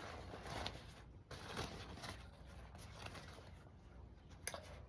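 Faint, irregular rustling and handling noises as a plant-dyed yarn bundle is unwrapped by hand, with a sharp click near the end.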